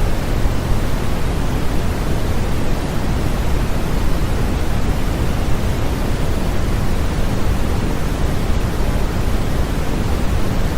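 Steady, unchanging generated noise used as a sleep aid, an even rushing hiss with more weight in the low end than the high, nearer pink noise than pure white noise.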